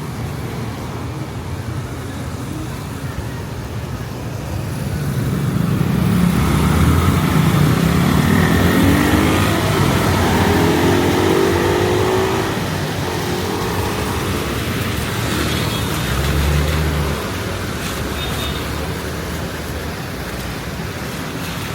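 Street traffic with a motor vehicle accelerating past, its engine note rising steadily in pitch and growing louder for several seconds before fading. A second vehicle passes a few seconds later.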